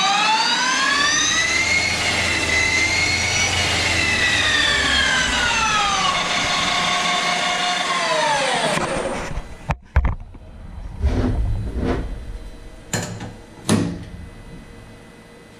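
CNC lathe spindle whining through a dry finishing cut on a plastic roller, its pitch rising over the first couple of seconds, holding, then falling as the spindle winds down and stops about nine seconds in. A sharp click and a few short knocks follow.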